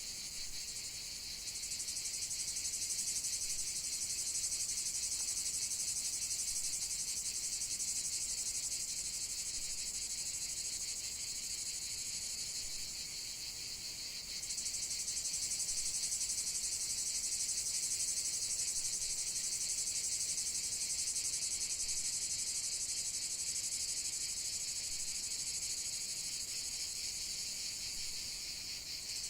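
A continuous chorus of insects trilling high and fast. It grows louder about a second and a half in and again about halfway through.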